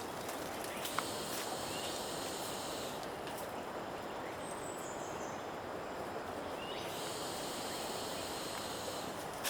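Tropical rainforest ambience: a steady hiss of the forest with high, steady buzzing that comes in about a second in, drops out around three seconds and returns near seven seconds, and a brief high falling note in the middle.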